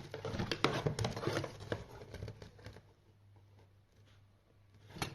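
Handling noises as a fuel line is fitted onto a pulse jet engine's fuel connector: a flurry of light clicks, taps and rubbing for about three seconds, then quieter.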